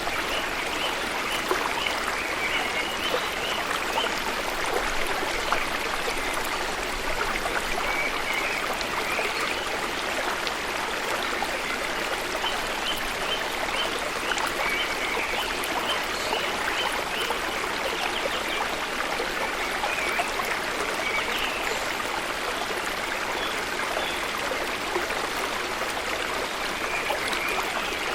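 Steady rush of flowing water from a waterfall and its stream, an even hiss without break. Short high chirps recur in small groups above it.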